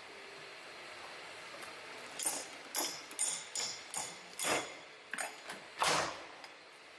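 Shoe-making machinery clicking and knocking: after a faint steady hiss, a string of about nine sharp, irregularly spaced knocks starts about two seconds in.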